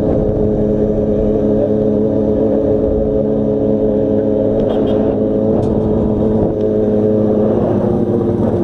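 Yamaha FZ6 motorcycle's inline-four engine running at steady revs while riding, with small shifts in pitch about five and a half seconds in and again near the end.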